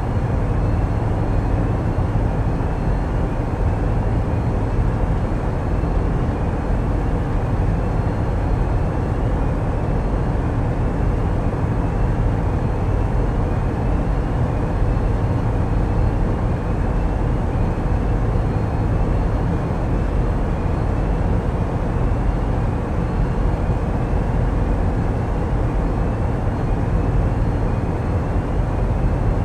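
Tugboat's diesel engines running steadily, a loud low drone heard on board, with a faint high chirp repeating about once a second.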